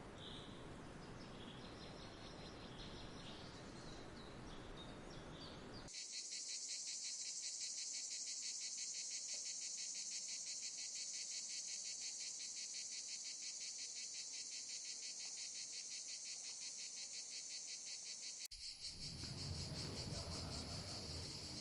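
Insects calling in a dense, rapidly pulsing high buzz that starts suddenly about six seconds in. Before that there is only faint outdoor noise with a few high chirps.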